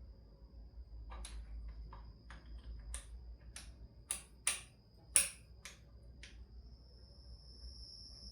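Sharp metal clicks and taps from hand tools at work, about ten of them at uneven spacing, loudest around the middle. A faint steady high whine runs underneath.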